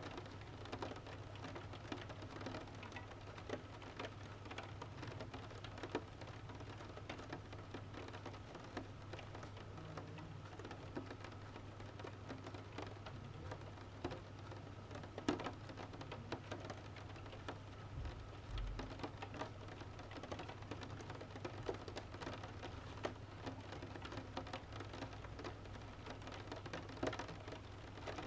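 Rain falling steadily, with a soft haze of patter and many individual drops ticking on a surface.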